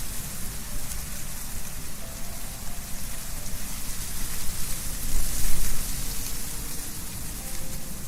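Wind blowing through trees, leaves rustling steadily, with a stronger gust about five seconds in.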